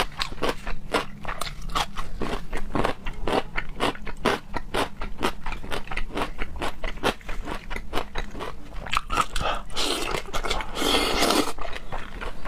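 Close-miked chewing of raw seafood in a mukbang: rapid wet mouth clicks and smacks, several a second. About ten seconds in, a longer noisy sound lasts a second or so.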